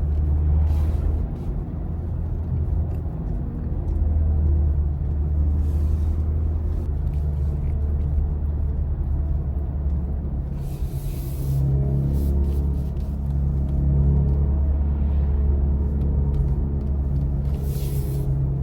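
BMW i4 M50 electric car driving, heard from inside: a steady low road-and-tyre rumble with a faint low drone on top. Two brief hissing swells come up, one about halfway through and one near the end.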